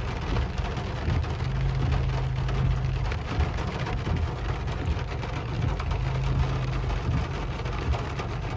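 Rain falling on a car's windshield and roof, heard from inside the car as an even hiss of fine ticking, with the car's low steady hum underneath.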